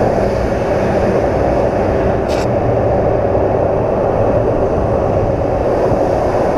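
Steady wind and engine noise of a BMW R1200 GS Adventure boxer-twin motorcycle cruising, with a brief click about two seconds in.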